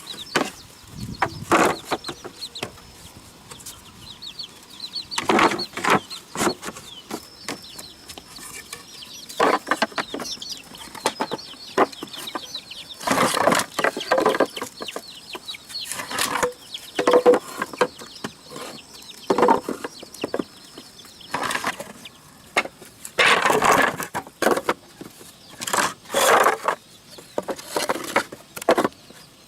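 Chickens clucking amid irregular knocks and rustling. A faint thin high whine runs through the middle stretch.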